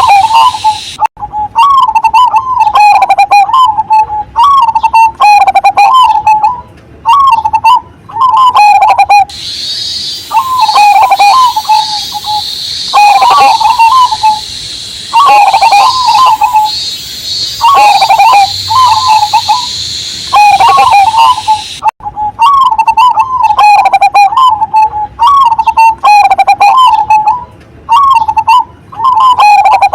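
A zebra dove (perkutut) cooing loudly over and over in short rolling phrases. A steady high cicada drone and the hiss of rain run behind it for stretches and drop out in between.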